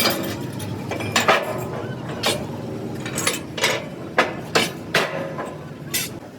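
A series of sharp metallic clanks and knocks, about eight of them at uneven intervals, with a little ringing after each, over a steady low hum.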